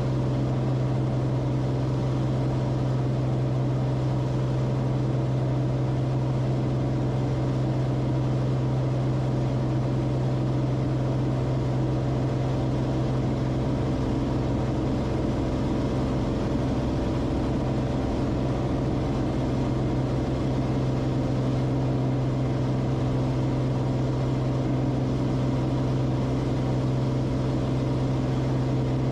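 Cessna Corvalis TTX's turbocharged Continental six-cylinder engine and propeller droning steadily at constant power.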